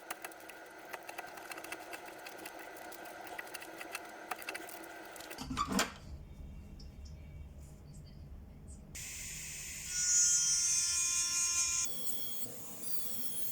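A small high-speed power tool's motor whining as it works on the material, in several short cut clips. Scratchy working noise comes first, then a sharp knock about six seconds in, then a steady high whine that is loudest a few seconds later.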